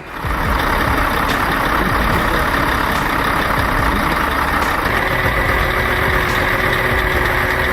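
Heavy truck engine running steadily under a loud, even rushing noise. A faint steady whine comes in about five seconds in.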